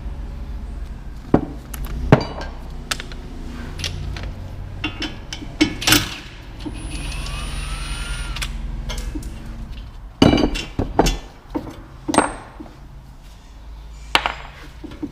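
Hand tools clinking and knocking on metal car parts, with many separate sharp strikes, the loudest about two seconds in and again about ten seconds in. A steadier sound lasting a couple of seconds sits in the middle, and a low hum runs underneath.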